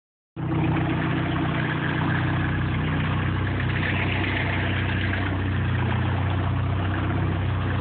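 Tuned Nissan S14a Kouki's engine idling steadily through its Tanabe aftermarket exhaust, a low, even exhaust note with no revving.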